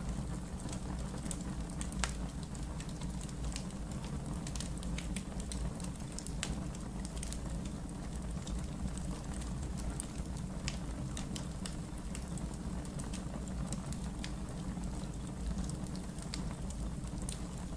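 Wood fire burning in a fireplace: steady low rumble of the flames with frequent irregular crackles and pops from the burning logs.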